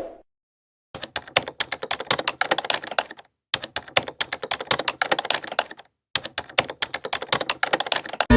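Rapid computer-keyboard typing clicks in three runs of about two seconds each, each starting and stopping abruptly with silence between.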